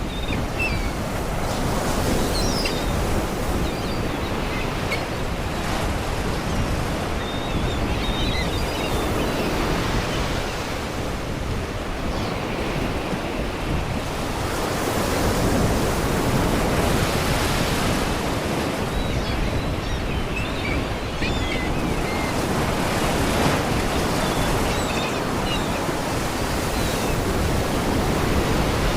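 Sea waves washing and breaking against rocks in a continuous rushing surge, with wind. Seagulls cry faintly several times over the surf.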